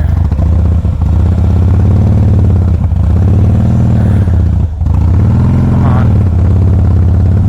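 2007 Harley-Davidson Softail Custom's V-twin running, its pitch swelling up and falling back twice as the throttle is worked. The engine keeps threatening to stall, a sign of the rough running the owner blames on years-old fuel gunk in the fuel system.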